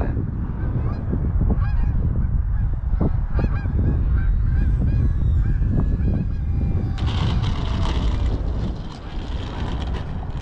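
Geese honking repeatedly over heavy wind rumble on the microphone. About seven seconds in, a hiss with a falling whine joins for a second or two.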